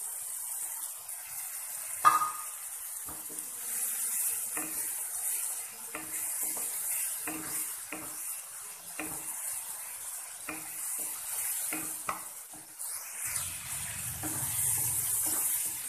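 Masala paste of onion, ginger-garlic and ground spices sizzling in a nonstick frying pan, stirred with a spatula in strokes about twice a second. The paste is at the frying stage where it starts to release its oil. A sharp knock on the pan comes about two seconds in.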